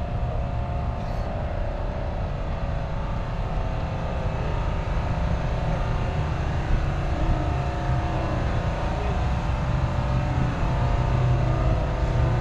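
Heavy diesel truck engine idling with a steady low rumble, growing slightly louder near the end.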